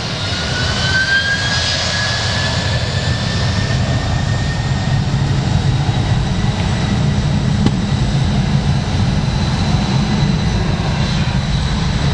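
Heavy Boeing 767 jet taking off: its turbofan engines at takeoff power make a loud steady rumble, with a high whine that rises slowly in pitch over the first few seconds.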